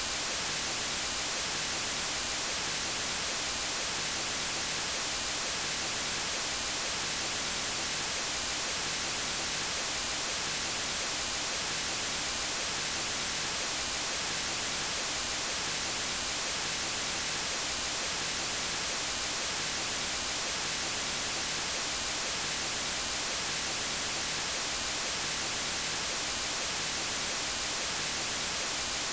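Steady white noise: an even, unchanging hiss spread across all pitches, brightest in the treble.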